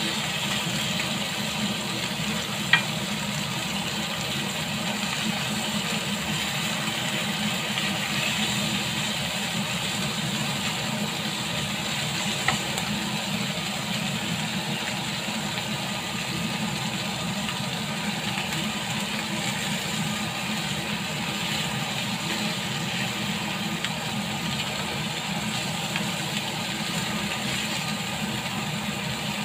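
Lamb chops sizzling steadily in a grill pan over a steady low hum, with two sharp clicks of metal tongs against the pan, a few seconds in and again about twelve seconds in.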